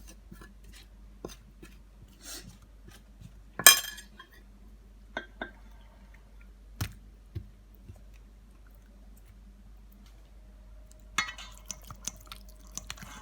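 Kitchen handling sounds: scattered clinks and knocks of dishes and a glass bowl. The loudest is a sharp clink about three and a half seconds in, and a quick run of small clicks and rattles comes near the end.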